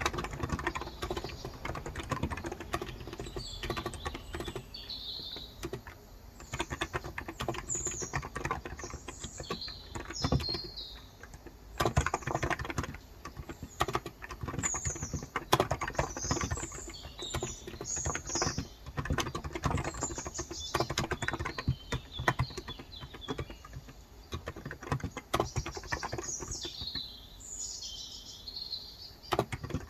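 Steady, irregular typing on a Cox Endeavor electrostatic capacitive (non-contact) tenkeyless keyboard with 35 g switches. Birds chirp in short phrases in the background.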